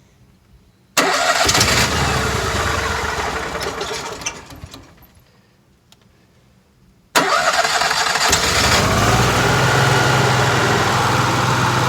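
RV's onboard gasoline generator being started: it starts suddenly about a second in and dies away within a few seconds, then starts again about seven seconds in and settles into a steady run.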